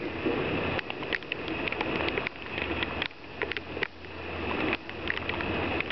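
Heavy rain falling on a city street, with many sharp ticks of drops hitting close to the microphone. A low rumble swells in from a little past halfway and fades near the end.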